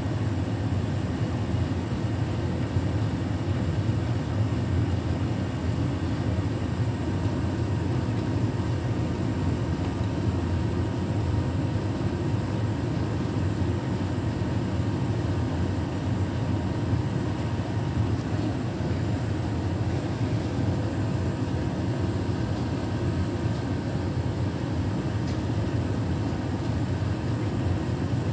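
Beko WTK104121W washing machine's drum turning with a steady rumble as it tries to even out an out-of-balance load, never building up to spin speed.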